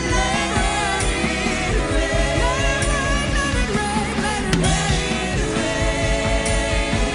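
Live worship band music with singing: a voice gliding over held chords and a steady low beat.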